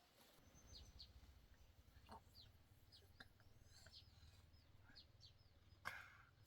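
Faint, scattered chirps of small birds, about a dozen short falling notes, over a low rumble, with one soft knock near the end.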